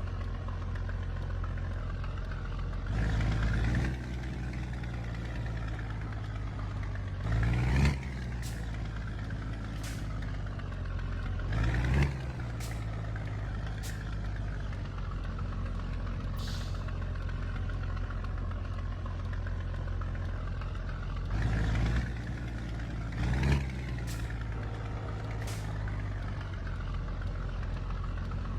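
Scania truck's diesel engine running steadily while the truck is under way, swelling louder for about a second at a time, six times. Faint sharp ticks come at irregular intervals in between.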